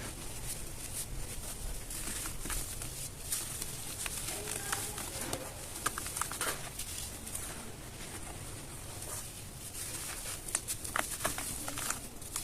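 Dry, gritty red dirt crumbling, a scatter of crisp crunches and crackles that grow busier near the end. A bird coos faintly in the background about a third of the way in.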